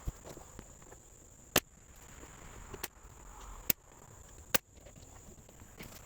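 Four sharp knocks about a second apart, from work on a wooden floor frame, over a steady high-pitched tone.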